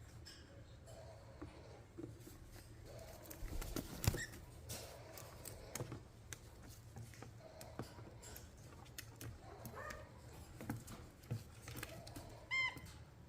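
Pet parrots chattering softly, with scattered clicks and scratches from beaks and feet and one louder click about four seconds in. A short, clear call comes near the end.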